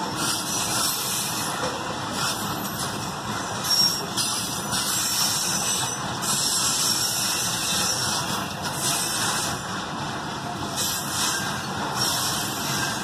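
Loaded grain hopper cars of a metre-gauge freight train rolling past, the wheels running steadily on the rails, with a high hissing squeal from the wheels that swells and fades every second or two.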